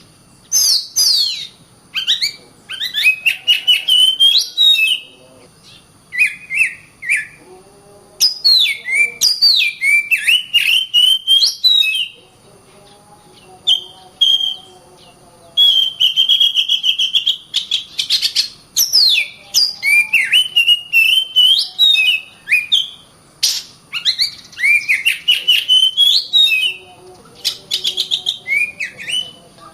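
Oriental magpie-robin (kacer) singing in rapid, dense phrases of varied whistled notes with sharp clicks, broken by short pauses.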